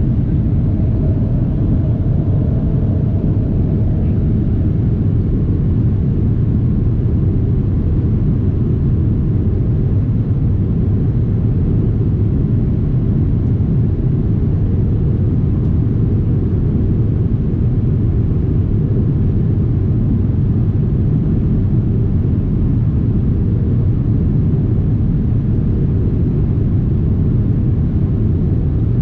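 Steady, low cabin roar of a Boeing 777-300ER in cruise: engine and airflow noise heard from inside the economy cabin.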